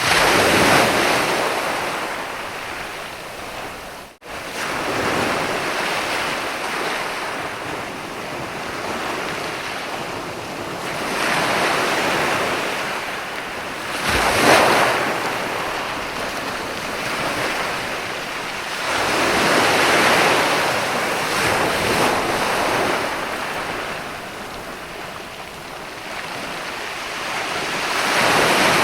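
Sea waves breaking and washing up a sandy beach, the surf swelling and ebbing in surges every several seconds, with a momentary break in the sound about four seconds in.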